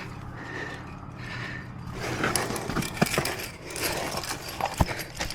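Metal climbing gear clinking and scraping against rock, with sharp clicks about three seconds in and again near the end.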